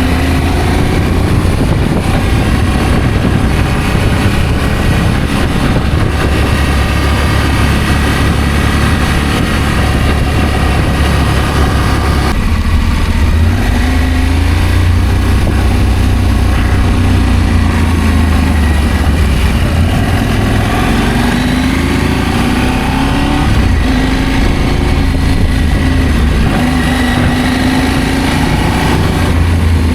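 Adventure motorcycle engine running on the move, its pitch rising and falling with speed and gear changes over a constant low rumble. The sound changes abruptly about twelve seconds in.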